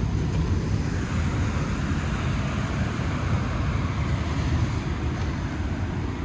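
Wind buffeting the phone's microphone with a low rumble, over the hiss of surf that swells for a few seconds from about a second in.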